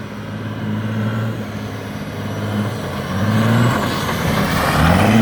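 5.9 Cummins inline-six turbo diesel through a 5-inch straight pipe, running steadily, then pulling harder from about three seconds in. Its pitch climbs, dips at a shift, and climbs again, getting louder as the truck accelerates.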